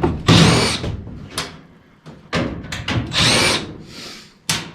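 Cordless power driver or drill run in several short bursts, as fasteners are driven or backed out of furnace sheet metal.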